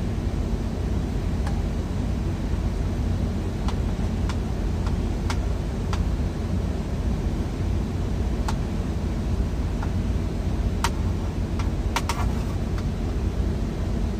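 Steady low rumble of an idling semi-truck engine heard inside the cab, with scattered sharp clicks and taps, several close together about 12 seconds in.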